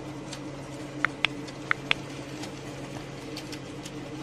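Steady rumble and hum of a moving train, heard from inside a compartment. About a second in, four short sharp clicks come in two quick pairs.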